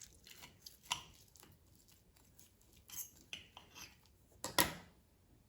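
Knife and fork cutting into a crispy breaded chicken cutlet on a plate: scattered light clicks and scrapes of cutlery, with one louder crunchy scrape about four and a half seconds in.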